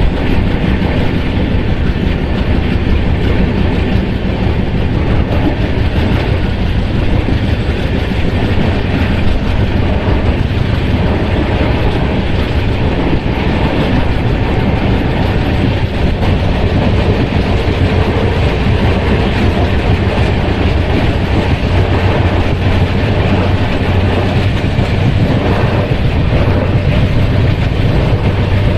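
A train running on the rails, a loud, steady rumble.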